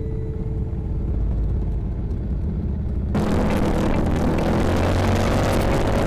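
Motorcycle engine running with a low rumble; about three seconds in, a loud rush of wind noise on the microphone sets in suddenly, and the engine note climbs slowly as the bike speeds up.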